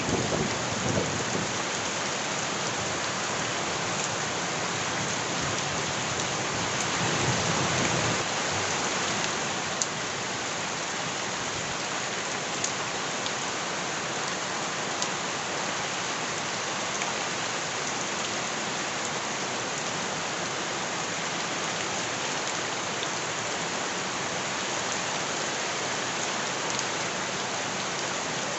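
Heavy rain falling steadily, a dense even hiss with occasional single drops ticking sharply. A low swell rises briefly near the start and again about eight seconds in.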